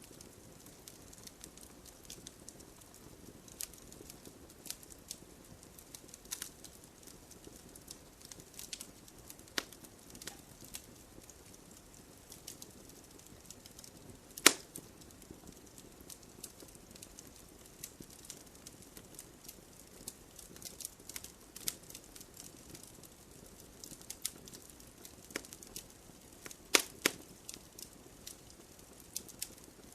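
Wood fire crackling: a low steady hiss under scattered sharp pops and snaps at irregular intervals, one loud snap about halfway through and a few more near the end.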